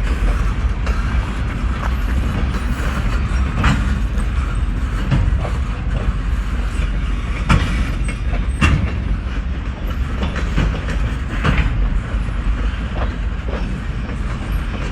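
Slow-moving freight train of refrigerator cars rolling past: a steady low rumble with scattered sharp clacks and clanks from the wheels and cars.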